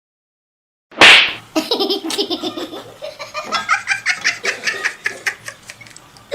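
A sudden loud burst about a second in, then a person laughing hard in quick repeated bursts.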